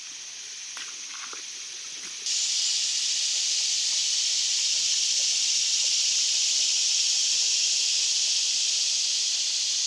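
Steady, shrill buzzing chorus of insects, which gets abruptly louder about two seconds in and holds there.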